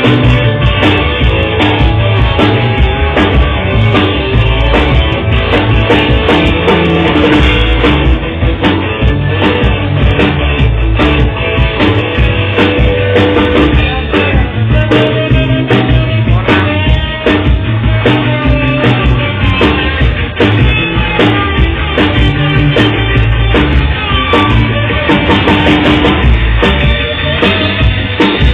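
Loud rock music: an electric guitar played over a drum kit, being checked for a fierce tone.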